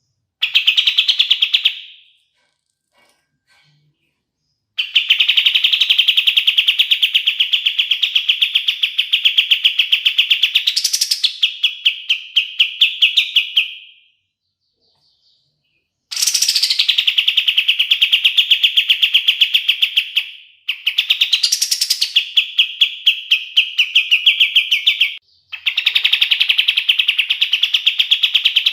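Kapas tembak bird singing long, rapid rattling trills, each held for several seconds with short pauses between, and a quick rising note cutting through two of them.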